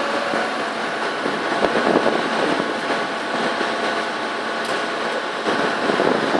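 Dump truck running, a steady, even mechanical noise with a couple of slightly louder rough patches, about two seconds in and near the end.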